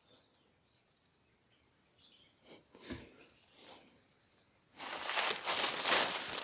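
Faint, steady, high-pitched chirring of insects. About five seconds in, loud rustling and handling noise breaks in close to the microphone.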